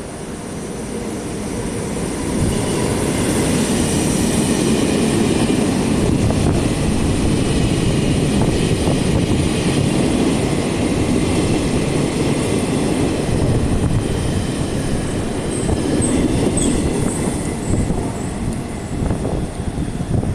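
Taiwan Railway freight train hauled by an E200-class electric locomotive rolling past at close range, a steady rumble of wagons on the rails that swells over the first couple of seconds. A few short, high squeals of the wheels come near the end.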